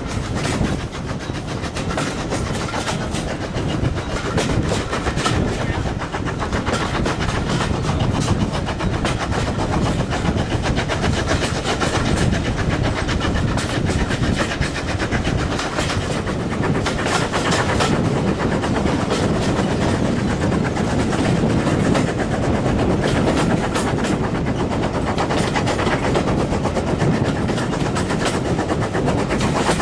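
A steam-hauled train of vintage carriages running along at speed, with the wheels clattering steadily over the rail joints, heard from an open carriage window. The sound swells up about a second in and then stays steady.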